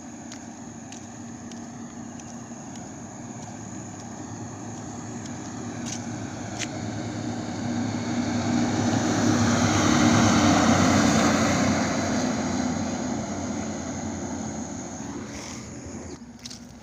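A truck passing on a highway: engine and tyre noise building up, loudest about ten seconds in, then fading as it goes by.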